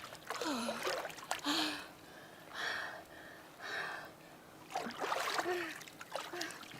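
A person breathing hard, with two long breaths and short gasping voice sounds, over a faint splashing of water.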